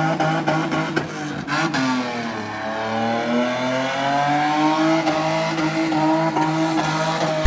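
BMW E30's M50 non-VANOS straight-six, with headers and an intake, revving hard during a burnout. The revs sag about two seconds in, then climb steadily again.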